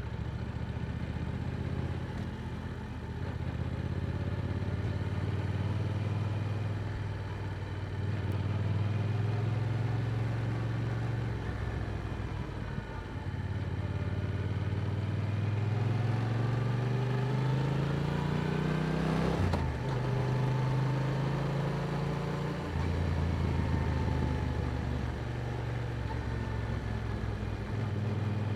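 Yamaha R7's parallel-twin engine through an Akrapovic exhaust while riding: it cruises steadily, then revs up through a gear for several seconds. A quick upshift about two-thirds of the way in drops the pitch, and it settles back into a steady cruise.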